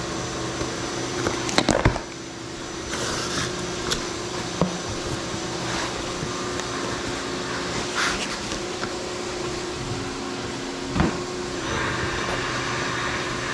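Steady hum of a Fanuc Robodrill CNC mill running, with a few short clicks and rustles of a heavy cardboard box being opened and handled.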